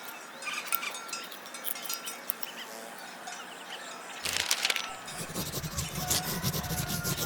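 Faint cartoon farmyard background with light chirps, chime-like tinkles and scattered clicks. About four seconds in comes a short loud rustling burst, then a low rumbling, clattering texture.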